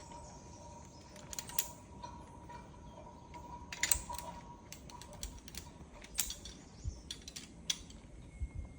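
Scattered sharp metallic clicks and clinks of zip-line gear, carabiners and pulley trolley, over a faint steady whine from the cable that fades out about halfway through.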